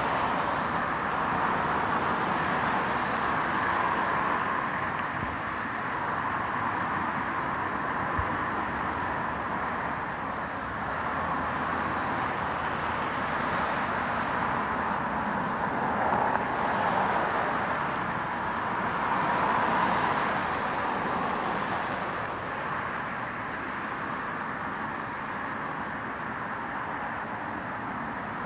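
Steady road traffic noise, with passing vehicles swelling louder a couple of times partway through.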